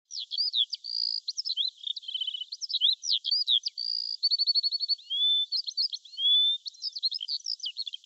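A songbird singing a fast, varied song of chirps, quick trills and short held whistles, thin-sounding with no low end.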